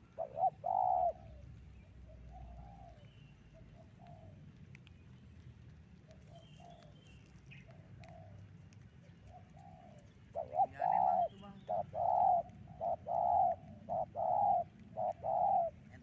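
Spotted dove cooing: a loud coo near the start, fainter coos through the middle, then from about ten seconds in a quick run of loud coo notes, roughly two a second.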